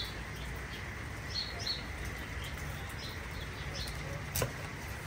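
Small birds chirping in short, scattered calls over a steady low hum. About four seconds in, a knife knocks once, sharply, on a wooden cutting board.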